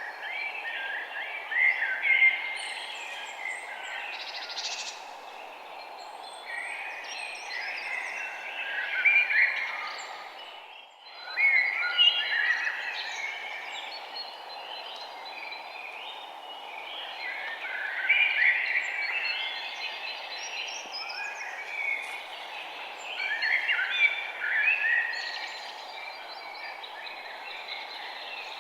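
Small songbirds chirping and twittering in overlapping bursts every couple of seconds over a steady background hiss. The whole sound dips out briefly about eleven seconds in.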